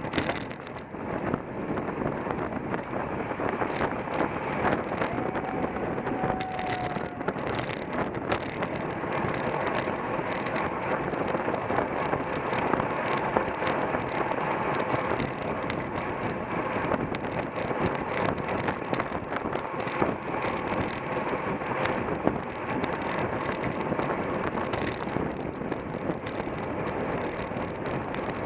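Steady wind rush over the microphone of a camera riding on a bicycle in a road race, with the bike's running noise underneath.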